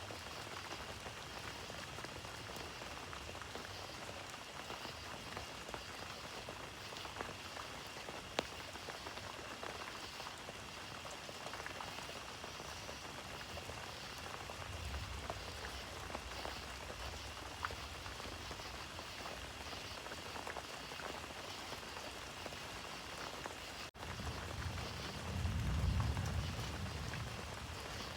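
Steady rain falling, with scattered louder drops. A low rumble of distant thunder swells and fades near the end, after a fainter one midway.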